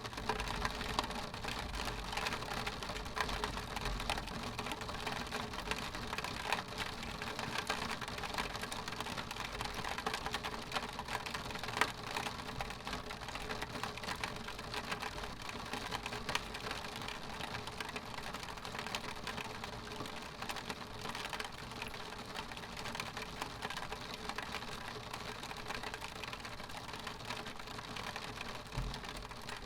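Rain pattering steadily on window glass, a dense patter of small drop ticks without a break.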